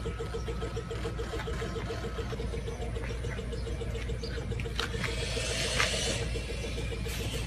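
Vehicle engine idling with a steady low hum and a rapidly pulsing tone, a few light clicks, and a brief noisy rush about five to six seconds in.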